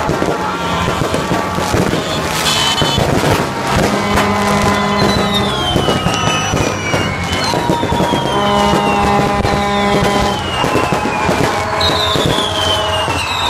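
Aerial fireworks going off: a dense run of cracks and bangs, with several falling whistles about every one to three seconds. Long steady notes sound underneath, most strongly between about four and six seconds in and again between about eight and ten seconds in.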